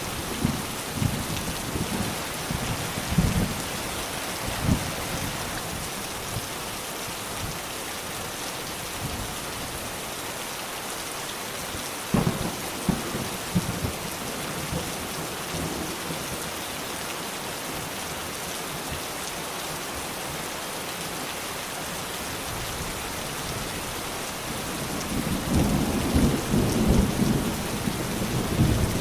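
Steady heavy rain with thunder: low rumbles in the first few seconds, a sharp clap about twelve seconds in, and a louder rolling rumble building near the end.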